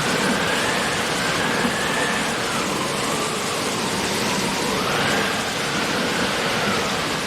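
Steady rain sound effect, an even hiss throughout, with a faint whistling tone that slowly rises and falls over it.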